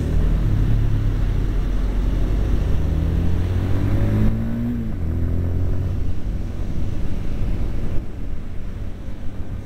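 Yamaha YBR250 single-cylinder motorcycle engine pulling under acceleration, its pitch rising, dropping about four seconds in at a gear change and climbing again, then easing off near the end.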